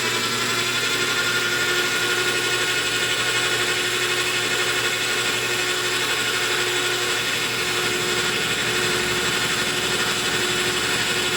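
Lathe set up for face milling, running steadily with a steady whine over a low hum, as the cutter takes a light five-thousandths pass across a copper bolt.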